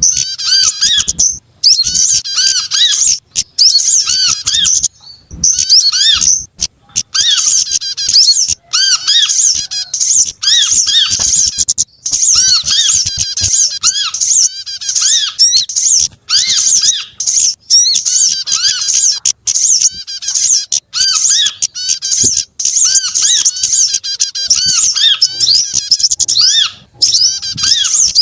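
Bird-lure recording of small songbirds calling in a dense, loud mix: rapid high chattering and twittering, with a short looping note repeated lower down, in runs broken by brief pauses. The mix layers calls of sogok ontong, kemade, korlap and prenjak (prinia), meant to draw small birds in.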